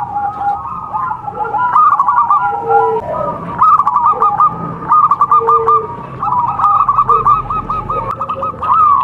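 Zebra doves (perkutut) cooing: repeated rolling, bubbling coo phrases, several calls overlapping one another.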